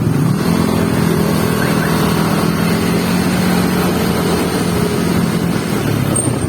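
An engine running at a steady speed under a rush of wind noise. Its note steps up about half a second in, holds steady, and drops away near the end.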